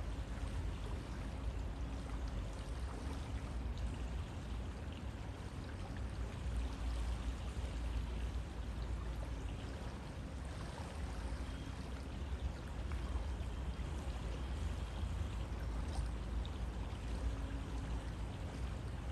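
River water flowing steadily: a continuous rushing noise with a deep low rumble underneath.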